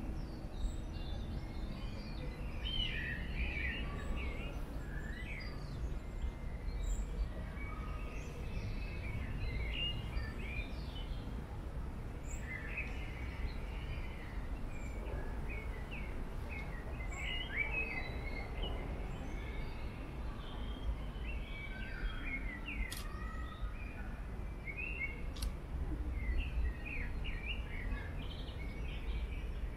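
Songbirds chirping and singing, many short overlapping calls, over a low steady background rumble.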